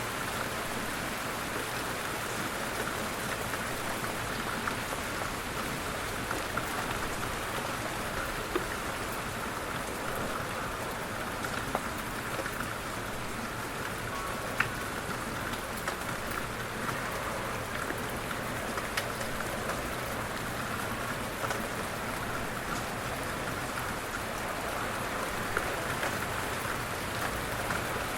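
Light rain falling steadily, an even hiss with occasional sharper taps of individual drops.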